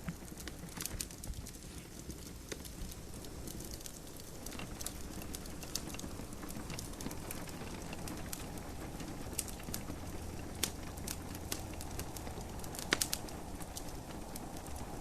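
Wood fire crackling in a fireplace, with irregular sharp pops scattered through and a loud pair of pops about 13 seconds in, over a steady low hiss of gentle rain.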